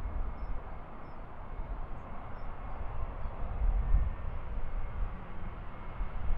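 Turkish Airlines Airbus airliner's jet engines, a steady uneven rumble heard at a distance, with no distinct pitch.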